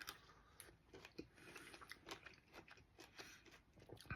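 Faint chewing of Nerds Gummy Clusters, a gummy centre coated in small crunchy candy pieces: a run of small, irregular crunches and wet mouth clicks.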